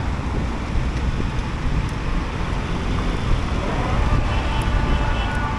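Wind buffeting the microphone while riding a Sym Jet X 125 scooter. About three and a half seconds in, a whine rises as the scooter speeds up, then holds steady.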